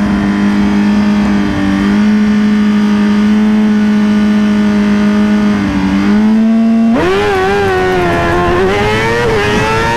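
Suzuki GSX-R 1000 inline-four engine held at a steady high rev for a drag launch. About seven seconds in it launches, and the engine note jumps up and climbs with small wavers as the bike pulls away.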